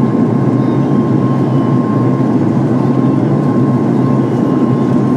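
Steady cabin drone of a Boeing 737 MAX 8, heard from inside the passenger cabin, with a thin, even whine running through it.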